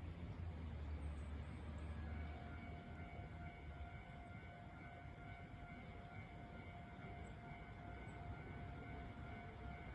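Alpico Kotsu 20100 series electric train standing at the platform: a low rumble, then a steady electrical whine of several held tones that sets in about two seconds in and does not change pitch.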